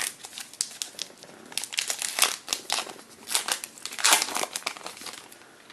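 A trading card pack wrapper being torn open and crinkled in the hands: dense crackling and crumpling that thins out near the end.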